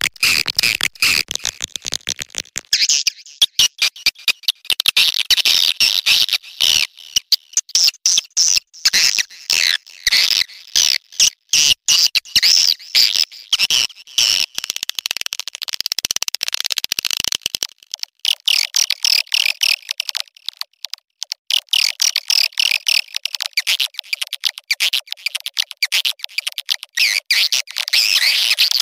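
Swiftlets' dense twittering, rapid clicking chirps packed closely together and high-pitched. This is a swiftlet mating-call recording of the kind played as a lure to draw swiftlets to a nest house.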